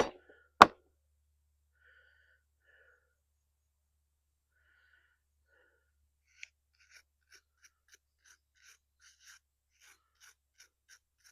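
Two sharp knocks half a second apart, then after a pause a run of faint, irregular scratching ticks, two or three a second: a knife blade scraping corrosion out of an outboard motor's pump housing.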